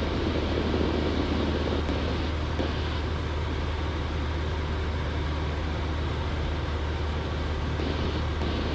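Cessna 172 engine and propeller droning steadily in flight, heard from inside the cabin as an even low hum under a wash of noise.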